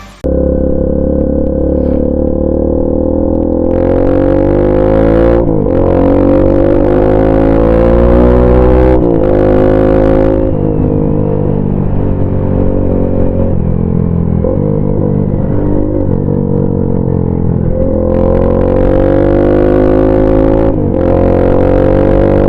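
A 200cc motorcycle's engine and exhaust under way, the pitch climbing steadily through each gear and dropping sharply at each shift, about five times.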